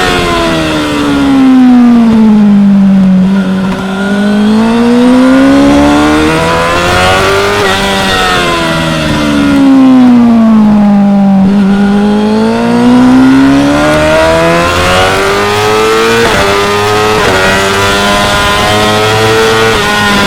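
Onboard sound of a 2016 Yamaha R6's inline-four engine at track speed. Twice the revs fall away as the bike slows for a corner, then climb again in a series of quick upshifts.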